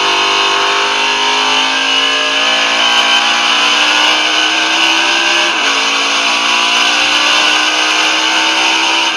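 Race car engine at high revs under acceleration, its pitch climbing steadily, then dropping with an upshift about five and a half seconds in and climbing again, with another shift near the end.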